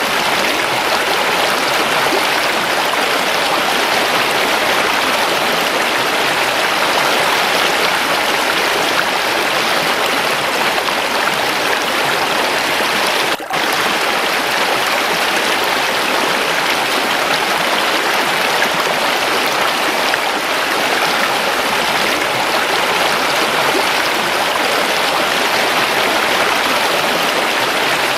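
Waterfall running water: a steady, dense rushing and splashing that holds even throughout, broken only by a momentary dip in level about halfway through.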